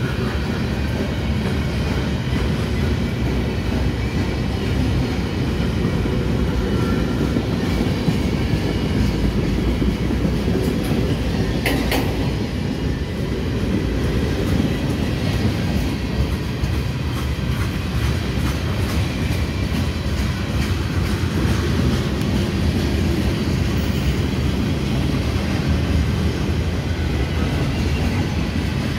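Freight cars of a CSX train rolling slowly past: a steady rumble of steel wheels on the rails with clickety-clack over the rail joints, and one brief sharp metallic sound about twelve seconds in.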